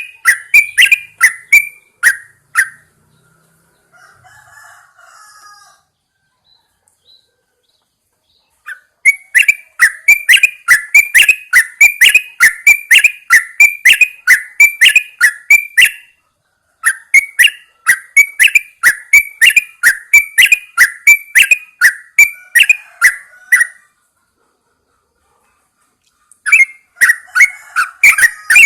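Yellow-vented bulbul calling: a fast series of sharp repeated notes, about four a second, in bouts of several seconds with short pauses between them, and a faint softer chatter in the first pause.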